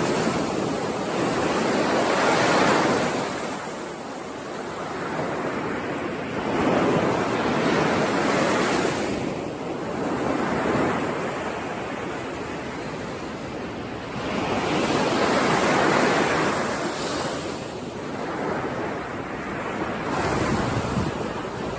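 Ocean surf: waves washing in and breaking, the rush of water rising and falling about every four to five seconds.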